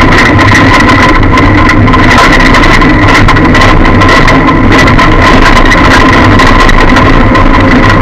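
Lada car engine running, heard loud from inside the cabin, with a steady high whine over it and constant rattling.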